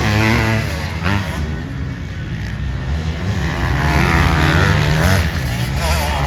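Several motocross dirt bike engines revving on the track, their pitch climbing and dropping as riders work the throttle and shift, over a steady low drone of more bikes.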